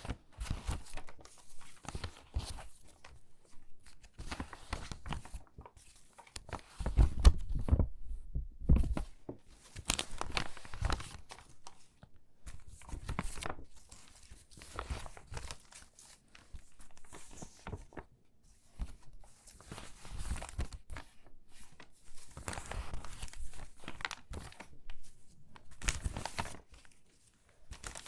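Crinkly water-damaged magazine pages being handled and sorted: irregular rustling and crackling of stiff, wrinkled paper, loudest about seven to nine seconds in.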